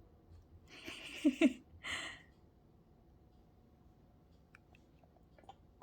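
A short breathy voice sound with a brief pitched squeak in it, followed by a second short hiss, in a quiet room.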